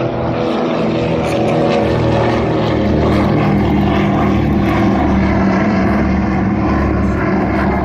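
Piston-engined propeller aircraft running close by, a loud, steady engine drone with a low hum and many overtones.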